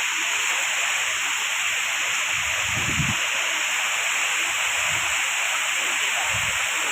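Strong wind blowing steadily, a constant rushing hiss, with a few low buffeting gusts on the microphone.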